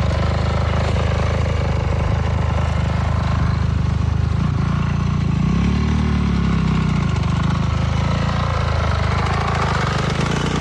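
Honda CRF450R dirt bike's four-stroke single-cylinder engine running steadily, revving up and easing back down about six seconds in.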